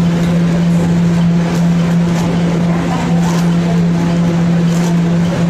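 Steady low electrical hum of the subway system over a constant rumble, with faint scattered clicks.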